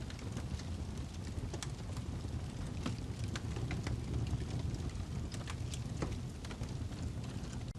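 Wood log burning in a fireplace: a steady low rumble of flames with sharp, irregular crackles and pops.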